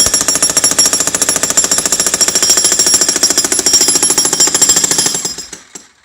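Jackhammer running, a rapid steady hammering that winds down and stops about five seconds in, with a few last knocks after it.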